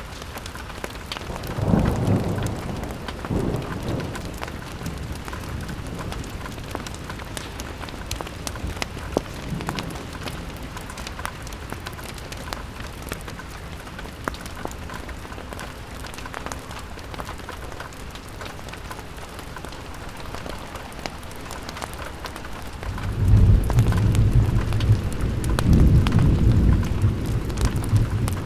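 Steady rain falling on a window, with many small drop ticks. A deep rumble swells briefly about two seconds in and returns, louder and longer, near the end.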